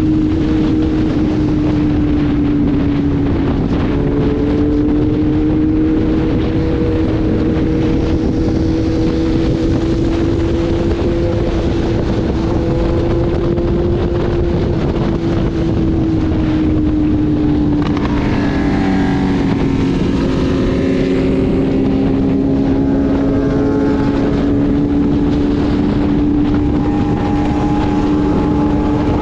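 Motorcycle engine running at a steady cruising speed under heavy wind noise on the microphone. Another engine's higher, shifting pitch briefly joins it about two-thirds of the way through.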